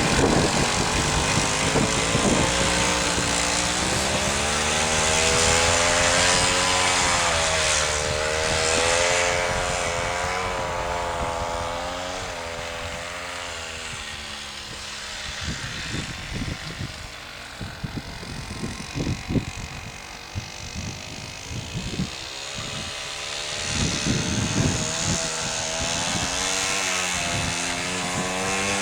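Two-stroke single-cylinder Minsk motorcycle engine powering a homemade snowmobile, running with its pitch rising and falling as it revs. It fades in the middle, where a run of sharp knocks is heard, and grows louder again near the end.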